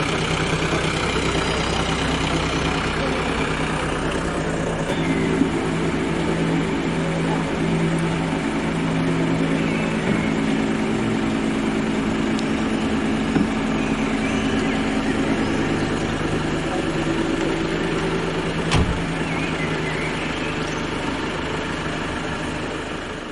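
Layered droning soundscape from a sound performance: a steady low hum with stacked sustained tones and a few sharp clicks, starting to fade out near the end.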